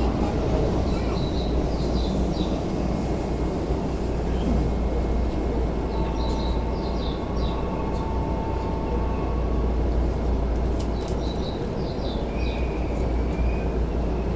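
Steady low hum of a Keisei 3000 series commuter train standing at a platform with its doors open. Three short clusters of high, bird-like chirps come and go over it.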